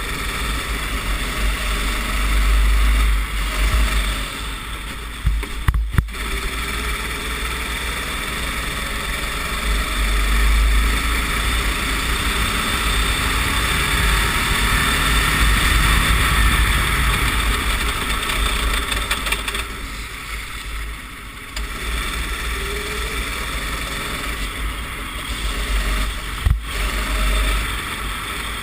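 Racing kart engine running at speed on a wet track, its pitch rising and falling, with wind buffeting the onboard microphone. Two sharp knocks come through, one about six seconds in and one near the end.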